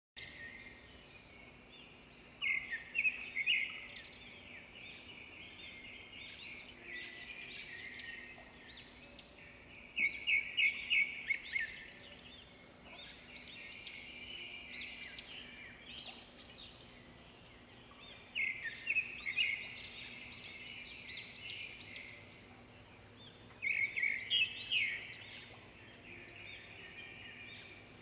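Birds chirping: quieter continuous twittering broken by four loud bursts of rapid repeated chirps, several seconds apart.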